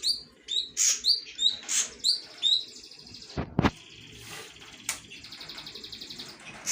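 Caged songbirds calling: a series of sharp, high chirps, each with a quick falling sweep, for the first couple of seconds, then a fast, steady trill from about three and a half seconds in until near the end.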